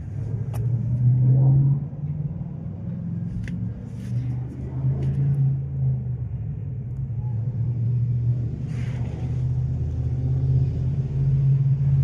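An engine or motor running steadily with a low hum, with a few light clicks and knocks over it.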